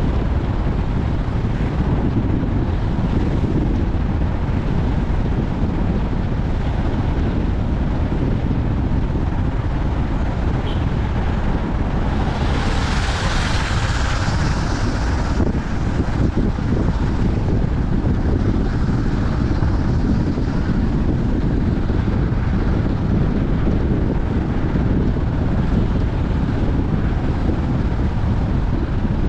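Wind buffeting the microphone over the steady low rumble of a moving car. About twelve seconds in, a louder hiss swells for roughly three seconds, then drops back.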